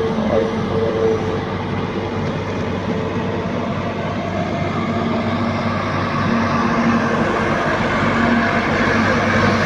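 Hydraulic excavator's diesel engine running with the machine at work, a steady drone with a held whine that grows louder about six seconds in.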